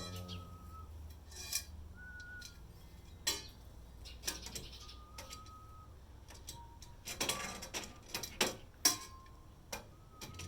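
Scattered clinks and knocks of small metal hardware and tools being handled while flat-pack furniture is put together, clustering into a quick run of clicks a little after the middle. Between them come several short, single whistled notes.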